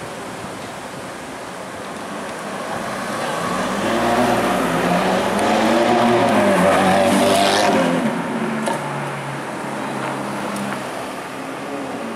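Ferrari F430's V8 engine revving as the car pulls past, its pitch rising and falling several times and loudest about halfway through. Before and after it a quieter engine runs, and two sharp cracks come in the later part.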